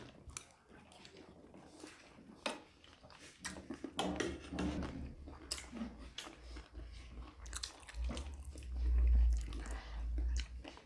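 Close-miked chewing and crunching of chatpatte, a crunchy spicy puffed-rice snack, with scattered sharp crackles and clicks. A louder low rumbling thump comes near the end.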